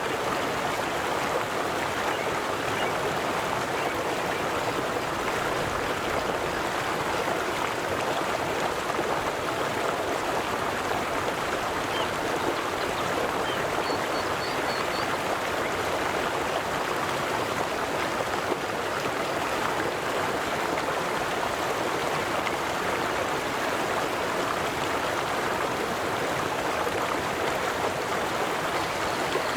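Steady rush and babble of a flowing river.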